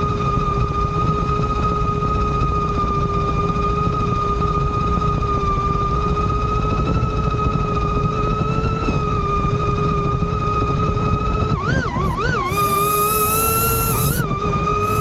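DJI Avata 2 FPV drone's motors and propellers whining at a steady pitch over a heavy rushing noise. About twelve seconds in, the whine wavers up and down several times as the motor speed changes, with a brief high hiss, then settles back to its steady pitch.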